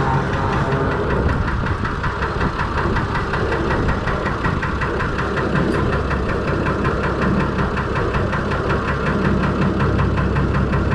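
Six-cylinder Perkins diesel engine of a Fordson Major tractor running steadily under way, with an even, rapid pulsing.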